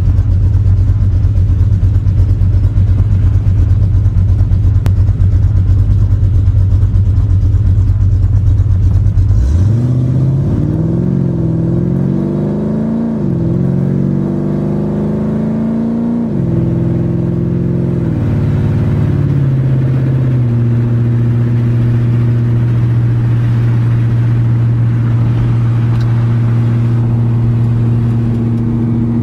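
2007 Ford Mustang GT's 4.6-litre V8 through a 3-inch exhaust with turndowns, while driving: a steady deep rumble for the first nine seconds or so, then the revs climbing and dropping back several times through gear changes, before settling into a steady drone at constant speed.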